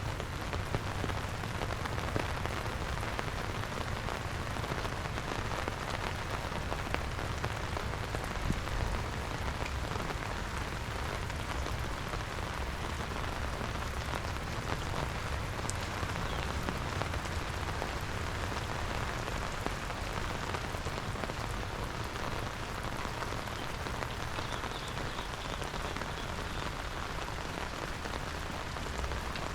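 Steady rain falling on wet ground, an even hiss with scattered drop ticks over a low rumble.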